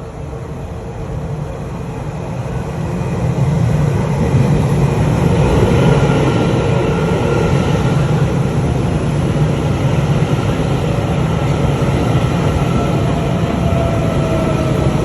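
Puyuma Express TEMU2000 electric multiple unit pulling into a station. The rumble of the train grows louder over the first few seconds and then holds steady, with a thin whine above it and a slowly falling tone near the end as the train slows.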